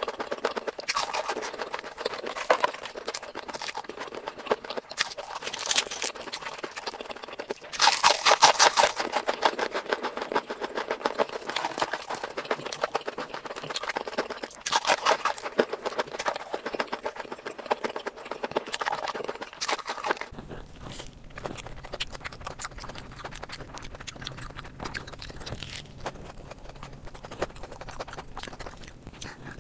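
Close-miked eating: rapid wet chewing, smacking and crunching of food, loudest about eight seconds in. About twenty seconds in it turns quieter and sparser over a low hum.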